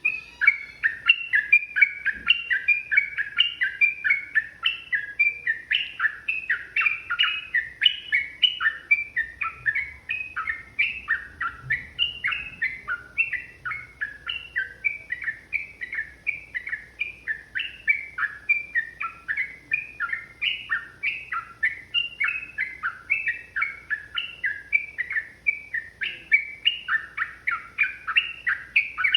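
Sooty-headed bulbul (trucukan) singing a long, unbroken run of short, quick notes, several a second.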